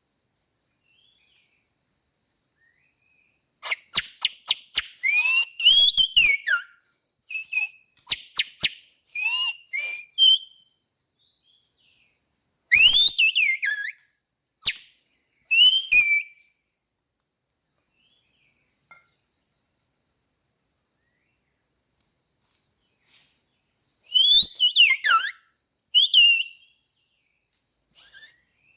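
Shrill, squealing whistles from a grass blade blown as a reed to mimic and call oriental magpie-robins, in three groups of quick swooping notes. A steady high insect drone sounds behind them.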